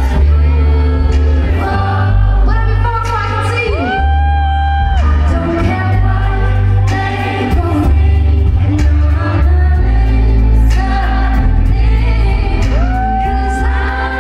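Live pop performance: a female singer with a band, the bass heavy. Two long notes slide up and hold, one about four seconds in and one near the end.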